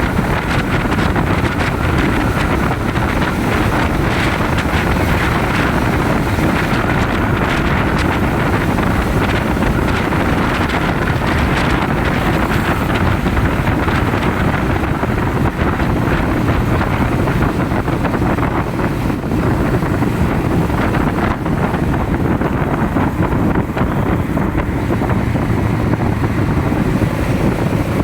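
Steady wind buffeting the microphone of a moving motorcycle, mixed with the bike's running and road noise.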